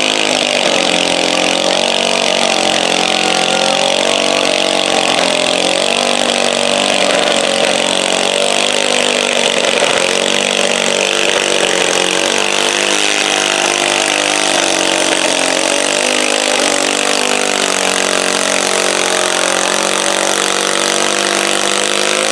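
Modified garden tractor engine running hard at high revs under load, pulling a stoneboat, its pitch wavering slightly as the load changes.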